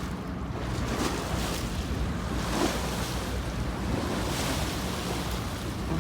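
Wind buffeting the microphone over water rushing and splashing along the hull of a sailboat under way, with a few swells of hiss that come and go.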